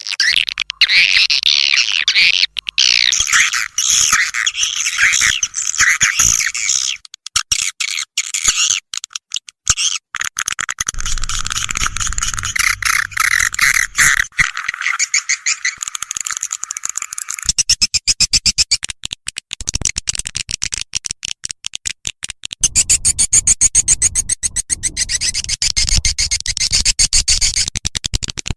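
Swiftlet lure call recording: dense, fast twittering chatter of edible-nest swiftlets with rapid clicking. This is the looped call played from swiftlet houses to draw the birds in to nest. In two stretches a low pulsing sound runs under the chatter.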